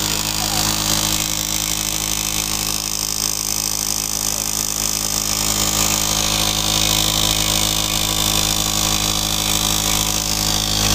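Electric motor-generator set running steadily, a constant machine hum with several steady tones.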